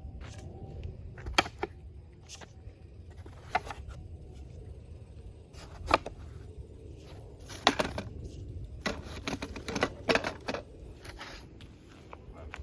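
Scattered knocks, taps and clatter of disassembled camp-kitchen parts being handled and set into packing foam, with a sharp knock about a second and a half in, another near six seconds, and a busier run of clatter from about seven and a half to eleven seconds.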